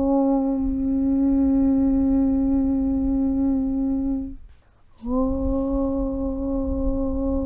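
A deep, steady hummed "Aum" (Om) drone held on one note. It fades out about four seconds in, stops for half a second, then starts again with a slight upward slide into the same pitch.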